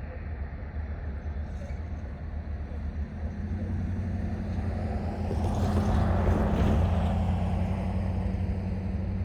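EMD GP40-2 diesel locomotive running as it pulls cars, a steady low engine hum that grows louder, peaks about six seconds in and eases off a little.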